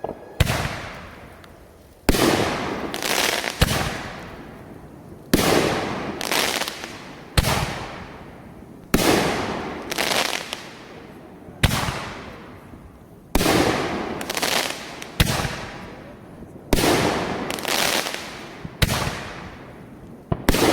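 Fireworks going off in quick succession: a string of sharp bangs, roughly one a second, each trailing off over about a second before the next.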